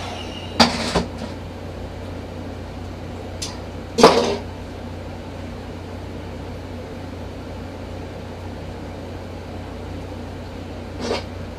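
Revlon One-Step hair dryer brush running steadily, its motor and fan giving an even blowing hum. A few knocks and bumps cut across it: two just after the start, a sharp loud one about four seconds in, and a softer one near the end.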